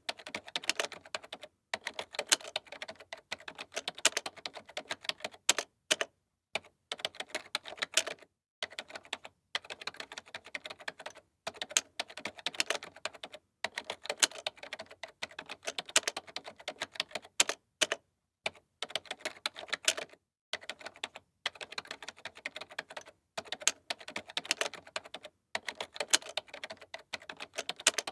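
Typing on a computer keyboard: quick runs of sharp key clicks, several a second, broken by brief pauses, with an occasional louder keystroke.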